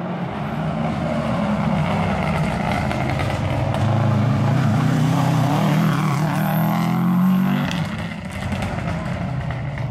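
Rally car engine pulling hard through a hairpin, growing louder as it approaches. Its pitch climbs as it accelerates about six to seven seconds in, then drops and fades about eight seconds in as it moves away.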